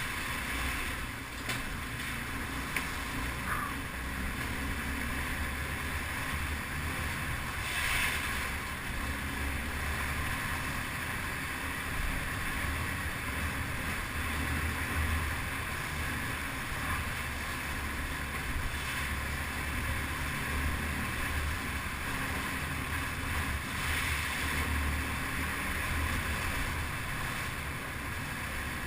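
Yamaha TT-R250 trail motorcycle's single-cylinder four-stroke engine running steadily under way, with wind rushing over the microphone and a few brief swells in level.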